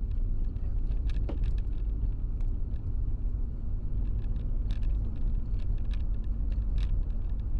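Steady low rumble of a car driving, with a faint steady hum and a few brief, faint clicks scattered through.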